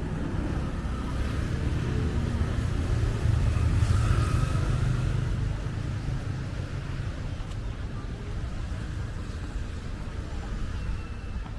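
A motor vehicle passing on the road, its low rumble growing to its loudest about four seconds in and then fading, over steady street noise.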